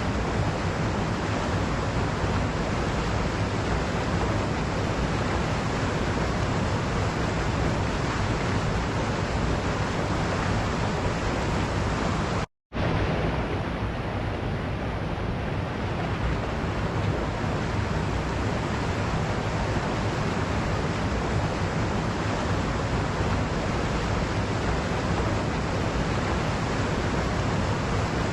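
Waterfall rushing in a steady, even roar of water. The sound cuts out completely for a split second about halfway through, then carries on as before.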